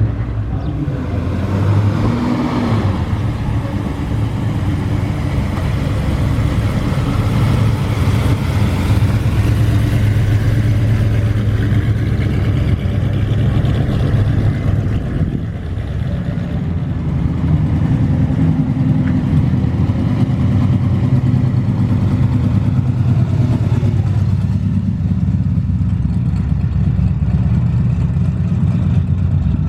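Car engines running at low revs, a steady low rumble that dips briefly about halfway.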